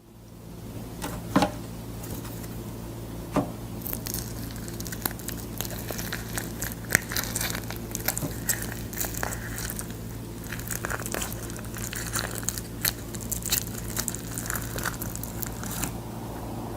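Crinkling, tearing and crackling as boiled sword beans are handled and opened before eating, many small irregular clicks, over a steady low hum.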